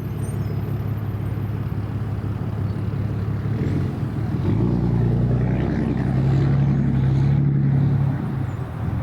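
Jet airliner engines rumbling steadily, growing louder and slightly higher in pitch about halfway through, then easing off near the end.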